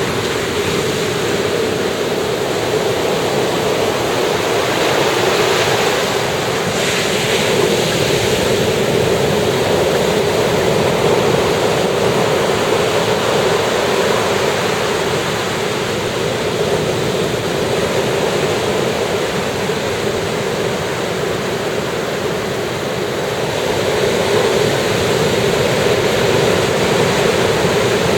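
Sea surf washing onto a beach, a steady wash of breaking waves that swells and eases gently. A brief brighter hiss comes about seven seconds in, with some wind on the microphone.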